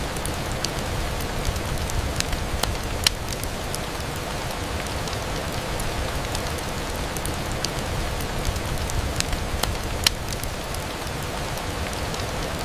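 Steady rain on a window, with scattered sharp ticks, the loudest about three seconds in and again about ten seconds in.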